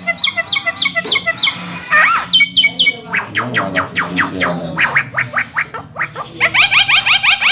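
Javan myna (jalak kebo) chattering: series of quick, repeated down-slurred notes and whistles, breaking into a fast run of repeated notes near the end.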